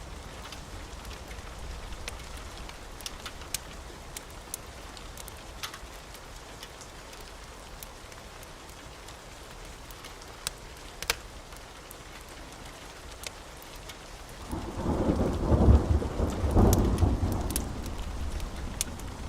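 Steady rain with scattered sharp crackles from a wood fire, then a roll of thunder rumbling up about three-quarters of the way through, loudest in two peaks before dying away.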